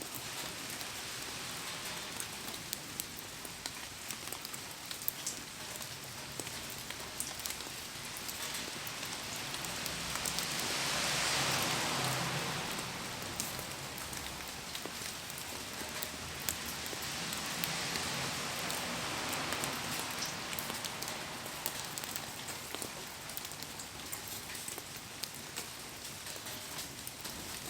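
Heavy rain falling steadily, with scattered sharp drop ticks. The downpour swells louder twice, around the middle and again a few seconds later.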